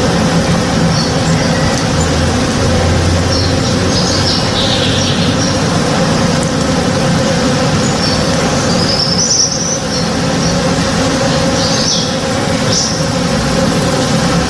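A swarm of honey bees buzzing in a flowering tree: a steady, dense hum. Short bird chirps come and go over it, clearest about four seconds in, around nine seconds in, and near twelve and thirteen seconds.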